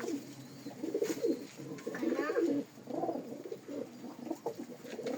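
Domestic pigeons cooing, a continuous run of low, overlapping coos.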